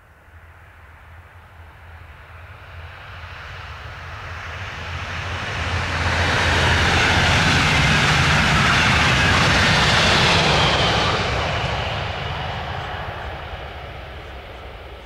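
A train passing on the line: a rushing noise that builds for about six seconds, stays loud for several seconds, then fades away.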